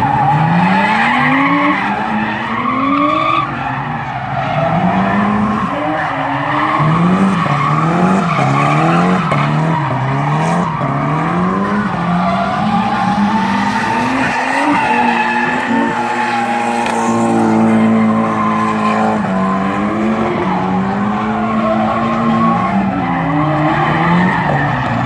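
Drift cars being driven hard: engines revving up and down, often about once a second, with the revs held high for a few seconds around the middle, over continuous tyre squeal.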